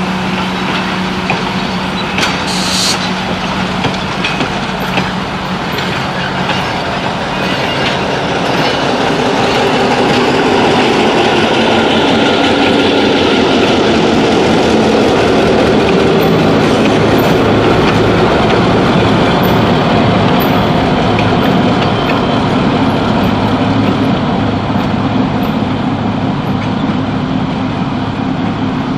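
Passenger train rolling past, wheels clicking over the rail joints. The diesel engine of a Wabash F7 locomotive grows louder as the locomotive passes about halfway through, then eases off as the train moves away.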